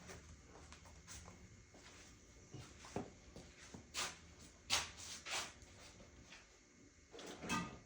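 Faint, scattered knocks and clatters of someone rummaging through drawers and storage: a handful of separate knocks, the loudest cluster near the end.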